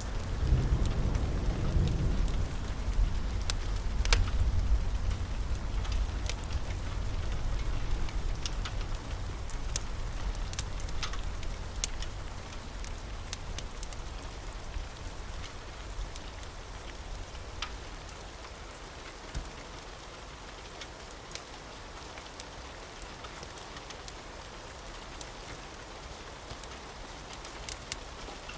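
Steady rain falling, with a low rumble of thunder in the first several seconds that fades away, and scattered sharp ticks over the rain's hiss.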